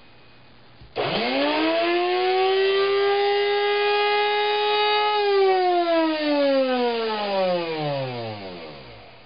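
Capresso 551 burr coffee grinder's electric motor switching on and spinning up with a rising whine. It runs steadily for about four seconds, then is switched off and winds down with a long falling whine until it stops near the end.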